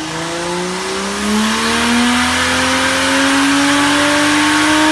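Turbocharged Nissan RB30 straight-six in a Holden VL Commodore pulling under load on a chassis dyno, its revs climbing slowly and steadily. It gets a little louder just over a second in.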